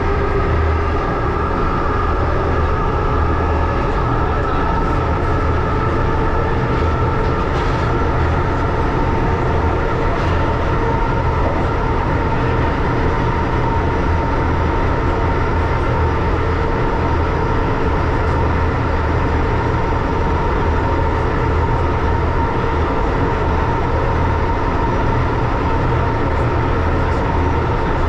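1938 Tube Stock underground train running at steady speed, an even rumble with a steady whine above it.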